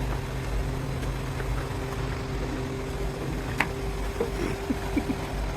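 Steady hum of running machinery, a low rumble with a constant tone, with a few light knocks and one sharp click about three and a half seconds in.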